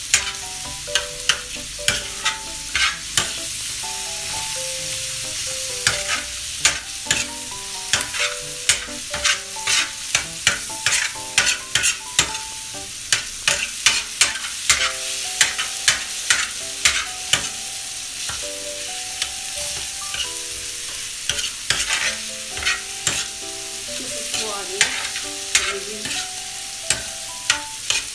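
Metal ladle stirring and scraping mutton liver, onions and tomatoes on a hot flat iron tawa: a steady sizzle of frying with frequent sharp scrapes and taps of the ladle on the griddle, often two or three a second. The masala is being fried (bhuna) until the tomatoes soften.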